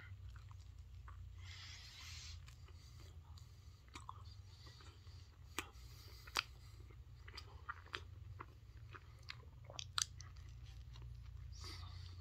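A person chewing a mouthful of Crunchwrap Supreme: soft crunches and wet mouth clicks, a few louder ones about six and ten seconds in, over a steady low hum.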